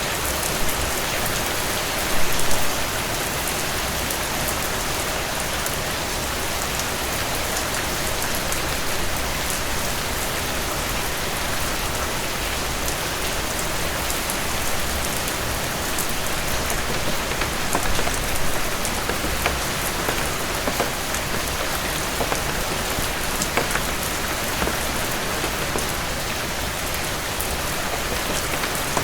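Heavy rain falling steadily on a surface, with scattered sharp ticks and a short cluster of louder knocks about two seconds in.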